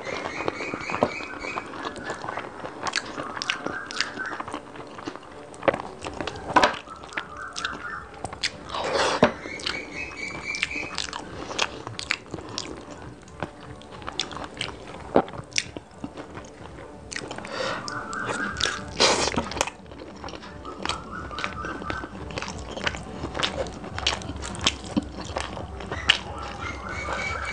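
Close-miked chewing and wet mouth sounds of someone eating rice and chicken curry by hand, with frequent sharp smacks and clicks.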